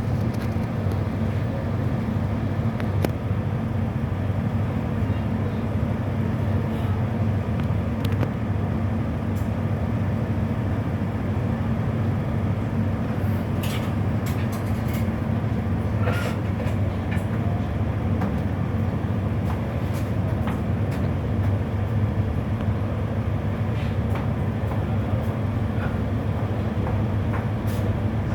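A ferry's engines running steadily as it prepares to berth, a constant low hum with a few light clicks and knocks now and then.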